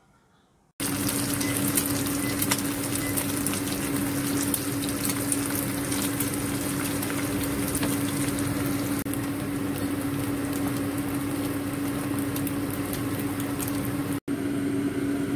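Egg, ground pork and dried radish omelette sizzling and crackling in hot oil in a frying pan, starting abruptly about a second in, with a steady low hum underneath. The sound cuts out for a moment near the end.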